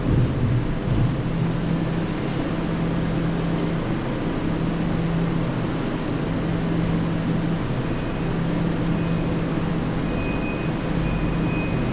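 A steady low engine-like hum over a broad rumbling noise, with a faint thin high whine coming and going near the end.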